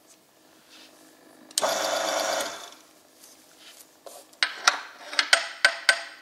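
Oil-film test machine's electric motor runs for about a second with a dense whirring rattle, then a quick series of about seven sharp metallic clicks.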